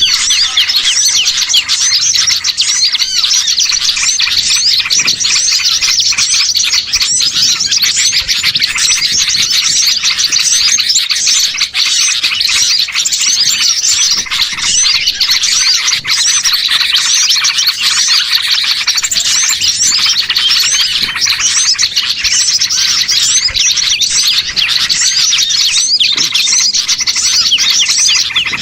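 A dense, noisy chorus of many small songbirds chirping and twittering without a break, layered calls overlapping in quick high-pitched trills. It is a bird-lure recording ('pikat burcil') made to draw small wild birds in.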